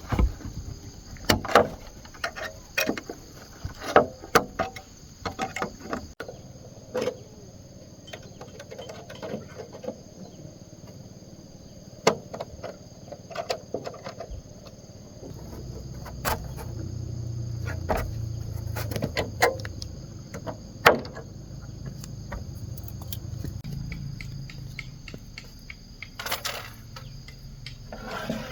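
Bamboo knocking and clattering in irregular strokes as it is worked by hand, over a steady high drone of insects. A low rumble rises through the middle and fades near the end.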